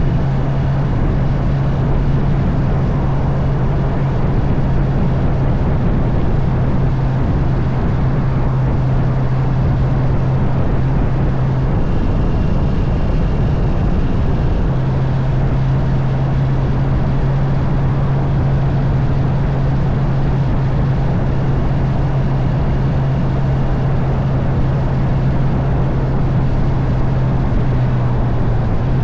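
Honda CB650R's inline-four engine running at a steady cruise under a heavy rush of wind and road noise. About twelve seconds in, the engine note drops away for about three seconds, as when the throttle is eased or a gear is changed, then comes back steady.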